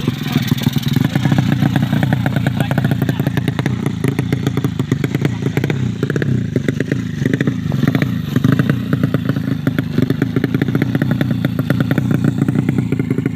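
130cc drag-bike motorcycle engine running steadily while being tuned, its pitch wavering briefly in the middle as the throttle is blipped. The tuner says the setting is not yet right.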